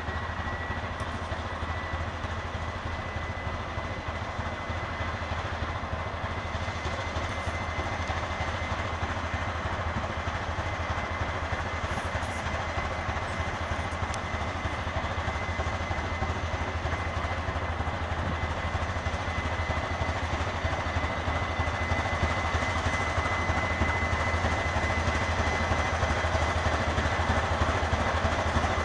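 TEM2M diesel shunting locomotive running under power with a steady low rumble and a thin high whine, growing gradually louder as it pulls away.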